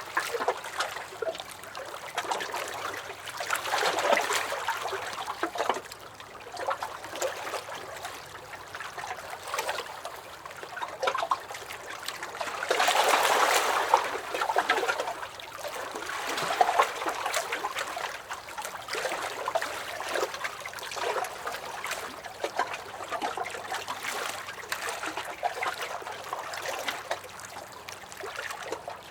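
Small lake waves lapping and splashing against a dock, an uneven run of little slaps and gurgles with a few louder swells.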